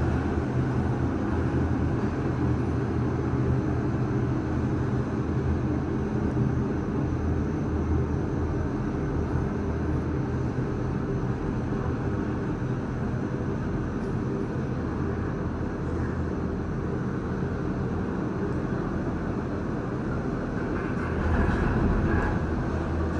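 Disney Skyliner gondola cabin riding along its cable, heard from inside the cabin as a steady low rumble and hum. The sound swells briefly near the end.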